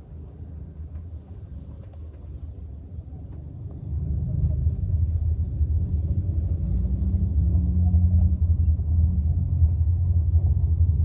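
A steady low rumble that grows louder about four seconds in.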